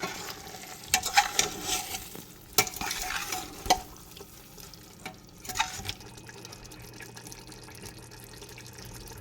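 A spoon stirring and scraping in a pot of frying chicken masala as curd is mixed in, with several sharp knocks against the pot in the first few seconds. From about six seconds in only a faint steady hum remains.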